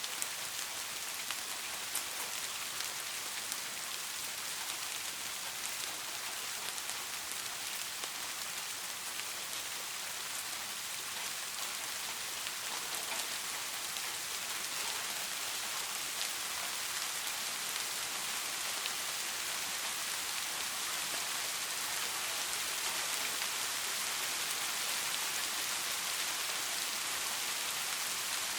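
Steady rain falling on a surface, an even hiss with fine scattered drop patter, growing slightly louder toward the end.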